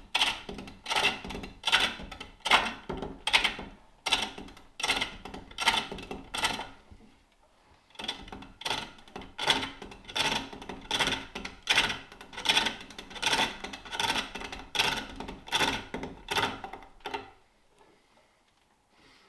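Turning tool cutting a wooden bowl on a spring pole lathe, in a steady rhythm of scraping cuts about once every three-quarters of a second, one for each treadle down-stroke. The cuts pause for about a second some seven seconds in and stop near the end.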